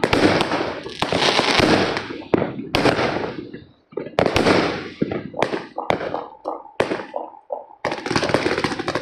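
New Year's fireworks going off around a neighbourhood: a dense run of crackling firecrackers, then a string of separate sharp bangs through the middle, and crackling building again near the end.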